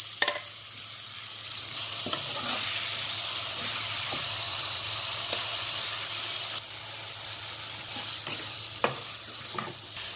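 Chopped tomatoes sizzling in hot oil with frying onion, garlic and green chilli in a non-stick pan, stirred with a steel spoon that scrapes and taps against the pan. The sizzle swells after about a second and eases a little about two-thirds through, with a sharp tap of the spoon near the end.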